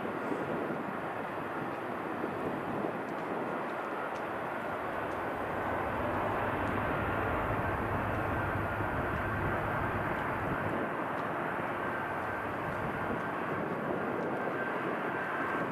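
Jet airliner's engines running, a steady rushing noise that grows louder with a deeper rumble about six seconds in, and a thin high whine that comes in alongside.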